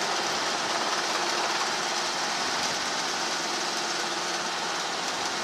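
Helicopter engine and rotor noise in the cockpit, a steady hiss with a faint hum under it.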